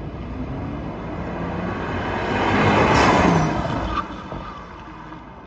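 A car driving past: its noise swells to a peak about three seconds in, the pitch falls as it passes, then it fades away.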